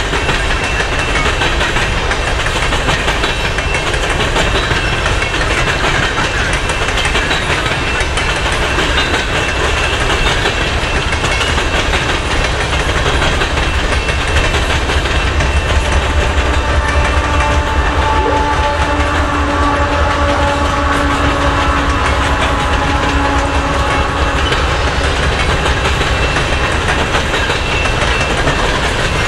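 Loaded coal hopper cars of a freight train rolling past, wheels clattering steadily over the rail joints with a deep rumble. About halfway through, a distant locomotive horn sounds faintly for several seconds.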